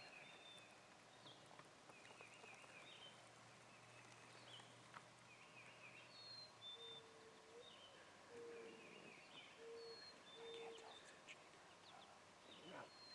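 Faint woodland birdsong: small birds chirping in short high phrases again and again. About halfway through come four short, low, hooting notes in a row.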